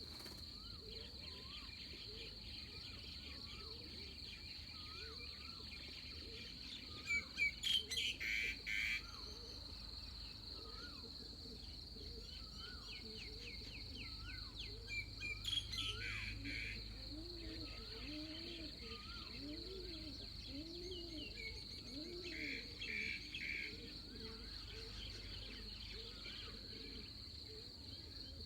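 Pre-dawn chorus of birds and insects: a steady high insect drone underneath many bird calls, with repeated short rising notes and a run of low, arched calls in the second half. Louder bursts of chirping come about seven to nine seconds in and again near the end.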